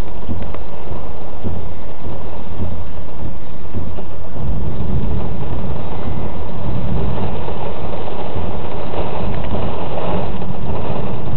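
A car driving through a heavy thunderstorm: dense rain and road noise, loud and distorted, with a deeper low rumble that swells about four and a half seconds in.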